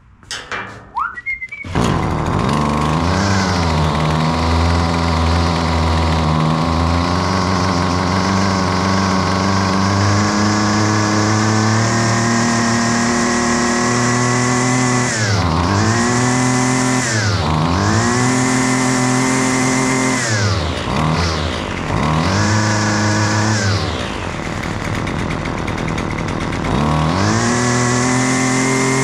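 Husqvarna 128LD string trimmer's two-stroke engine starting about two seconds in, then running at high revs and blipped down to idle and back up to full throttle several times. It revs out freely, running good after the carbon from a bad fuel mixture is cleared.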